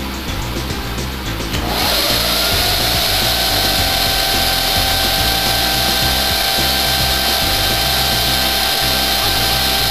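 Desktop PC's high-airflow cooling fans (Vantec Tornado) spinning up a couple of seconds in. A whine rises briefly in pitch, then holds steady over a loud rush of air. Background music plays underneath.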